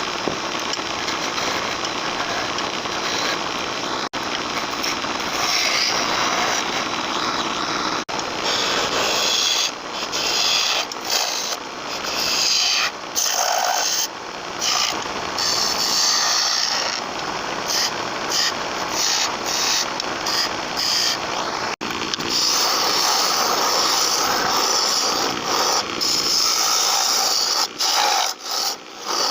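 Wood lathe spinning a workpiece while a turning tool cuts the wood, a steady dense cutting noise. From about ten seconds in, it breaks off briefly again and again as the tool lifts away and returns.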